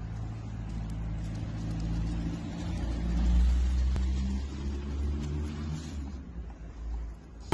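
A motor vehicle's engine running nearby with a low, steady rumble. It swells about three seconds in and eases off afterwards.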